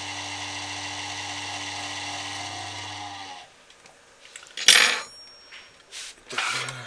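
PC power supply humming with the annoying drone of its cooling fan, a steady low buzz with a whirring hiss over it, cutting off suddenly about three seconds in. A few knocks and clatter from handling follow, the loudest a sharp knock a little past the middle.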